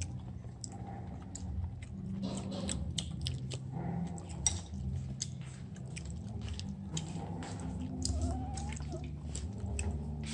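A person chewing crunchy food, roast meat and peanuts, with irregular small crunches and clicks. A low steady hum runs underneath.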